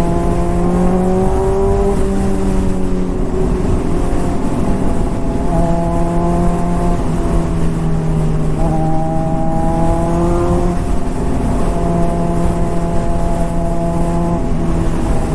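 Honda CBR600RR's inline-four engine with an aftermarket exhaust running at steady moderate revs, its pitch rising gently twice as the throttle is rolled on. Wind noise rumbles on the helmet microphone.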